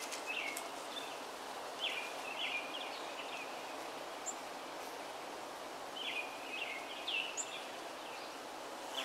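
A small bird chirping in short groups of quick notes, a few seconds apart, over a steady outdoor hiss.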